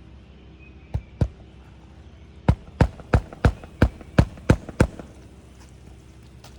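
Hammer driving roofing nails back through a lifted asphalt shingle into the roof deck. There are two blows, then a run of eight at about three a second.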